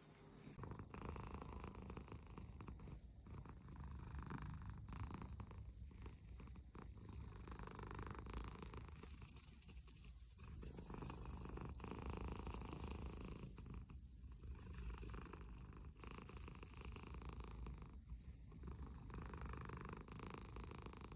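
American Shorthair cat purring, a continuous low rumble that dips briefly every few seconds.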